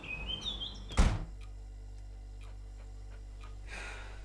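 Birds chirping outside through the open doorway, then a uPVC front door is shut with a loud thud about a second in, cutting the birdsong off and leaving quiet room tone.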